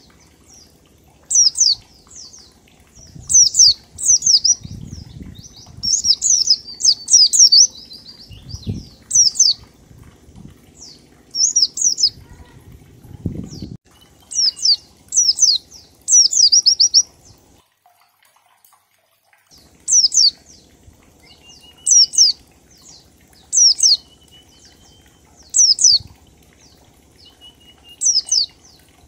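White-eye (pleci) singing in the 'ngalas' style: short, sharply falling high notes in quick groups of two to four, repeated every second or two, in a 1-2-3-4 beat pattern used as a lure call to prompt other white-eyes to sing.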